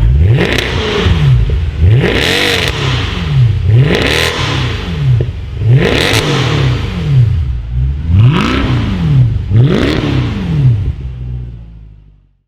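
Mercedes-AMG C63's V8 through a newly fitted Armytrix aftermarket exhaust, free-revved about six times, each blip rising quickly and falling back to idle, roughly two seconds apart. The sound fades out near the end.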